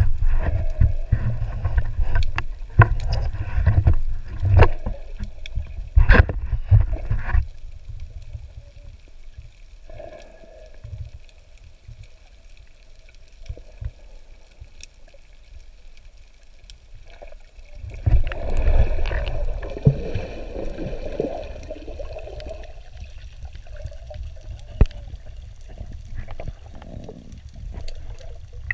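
Water sloshing and bubbling in a freediving recording, with a strong low rumble. Sharp knocks and thumps come through the first seven seconds. After a quieter stretch, a loud burst of bubbling comes about eighteen seconds in.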